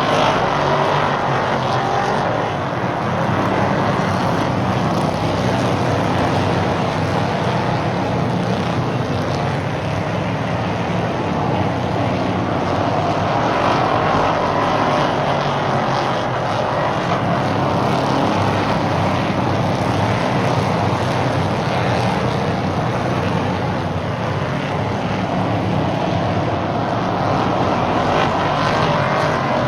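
Stock race cars running laps on an oval track. The engine noise is steady, with a pitch that swells and eases every several seconds as the cars come around.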